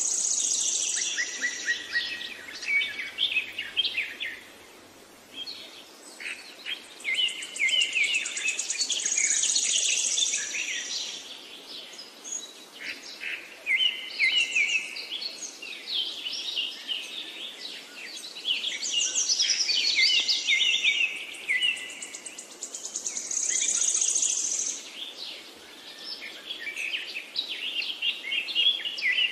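Birds chirping and singing in quick high trills and twitters, coming in waves with short lulls between.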